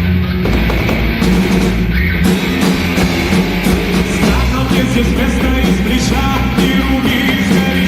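Rock band playing live and loud, with bass and drums under a full band sound.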